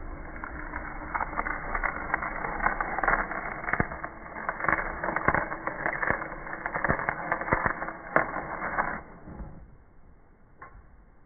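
A carving tool shaving and cutting into wood: a continuous scratchy scraping full of sharp cracks and clicks, which stops about nine seconds in.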